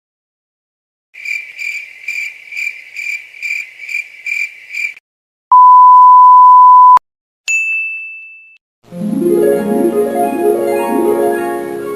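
A run of stock sound effects: cricket chirps repeating about two or three times a second, then a loud pure censor beep of about a second and a half, a single bright ding that rings away, and from about nine seconds in a short piano-and-harp music cue.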